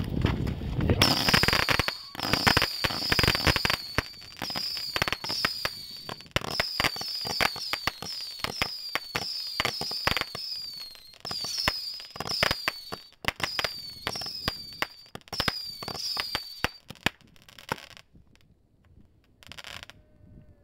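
Consumer grand-finale firework firing off: a rapid string of sharp cracks and pops mixed with short whistles that fall in pitch, going for about sixteen seconds and then stopping suddenly, with a couple of faint pops near the end.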